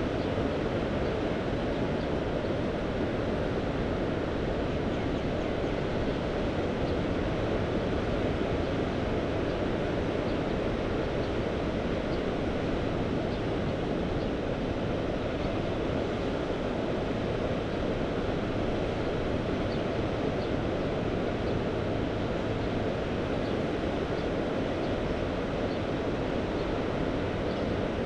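Mediterranean sea surf washing steadily, mixed with wind noise, as one even rush with no single wave standing out.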